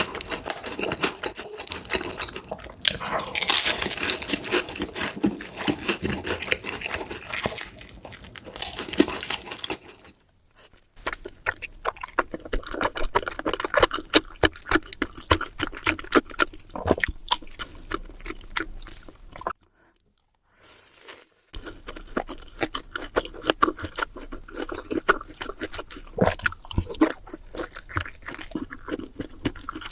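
Close-miked eating sounds: irregular crunching, biting and wet chewing of food. The sound falls quiet briefly twice, about a third and two thirds of the way through.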